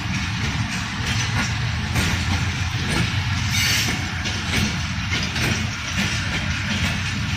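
Passenger train carriages rolling along the rails as the train pulls out: a steady low rumble with faint clatter from the wheels.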